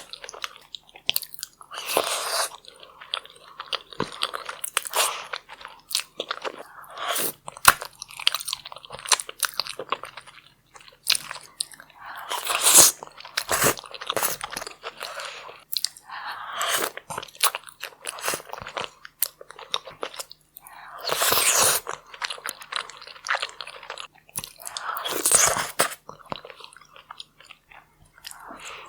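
Close-miked mukbang eating of saucy seafood: bites, crunches and wet chewing in irregular bursts, some loud, with short pauses between.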